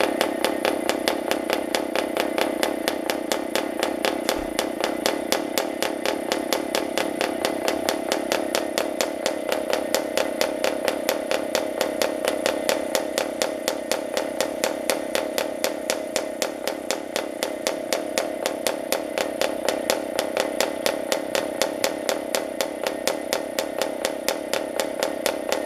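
PAW 40 TBR two-stroke model diesel (compression-ignition) engine running steadily, with an even pulsing beat.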